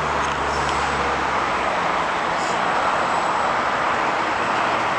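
Jet airliner engines: a steady, loud rushing noise, with a low hum underneath that fades out about two seconds in.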